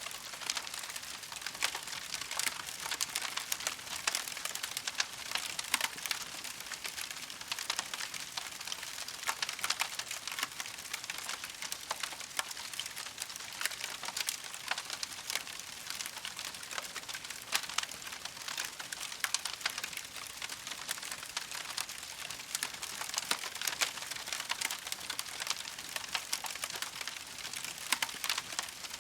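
Campfire crackling steadily, a dense run of small pops and snaps over a soft hiss.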